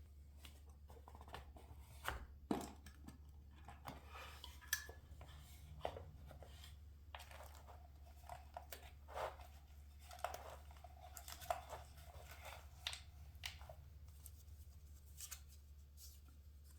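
Scrapbooking paper being handled: faint, irregular rustles and short crisp clicks and taps, over a low steady hum.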